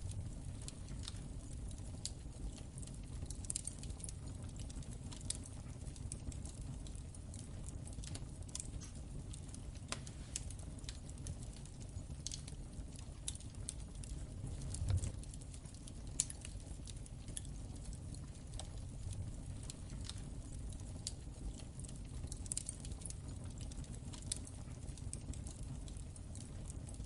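Wood fire in a fireplace crackling, with irregular sharp pops and snaps over a steady low rumble of the flames; a slightly louder low thump about 15 seconds in.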